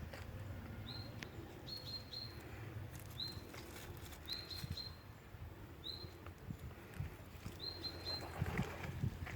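Small bird chirping: short high chirps, singly or two or three in quick succession, repeated every second or so, with faint scattered clicks and tapping.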